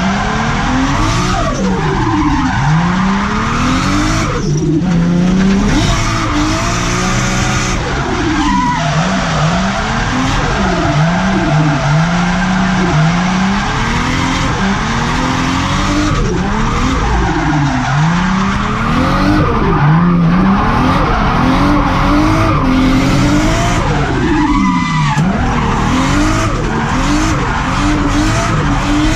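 A turbocharged car drifting: its engine revs rise and fall every second or two while the tyres screech steadily.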